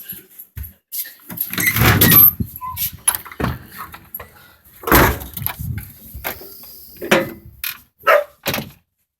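A run of irregular knocks and thumps, loudest about two seconds in and again about five seconds in, then two short dog barks near the end.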